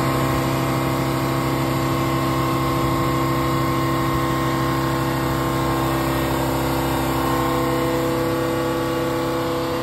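Power sander running steadily: a loud, even machine hum with several held tones that shift slightly near the end.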